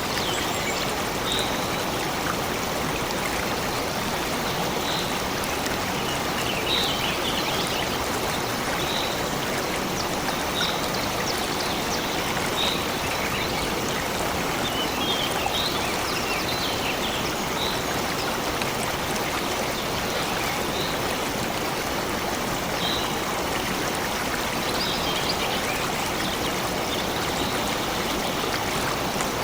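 Steady rush of a flowing stream, with a bird giving short high chirps every second or two.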